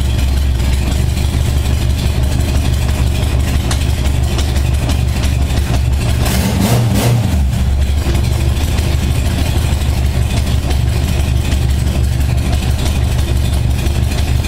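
1978 Honda Goldwing's flat-four engine idling steadily on partial choke while warming up from a cold start, its carburetors freshly synchronized. The engine note wavers briefly about seven seconds in.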